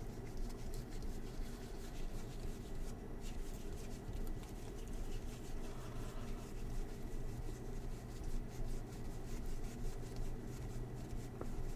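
Baseball trading cards being handled and slid through the hands, soft rubbing and faint scattered clicks of card on card, over a low steady hum.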